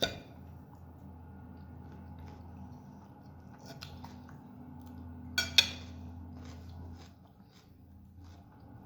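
A person eating lagmon noodles: soft chewing and small mouth and utensil clicks over a low steady hum. A sharp click comes right at the start, and two sharp clicks close together come about five and a half seconds in.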